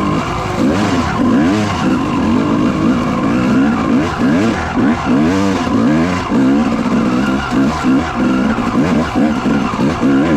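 Dirt bike engine being ridden hard off-road, its pitch rising and falling over and over as the throttle is opened and shut.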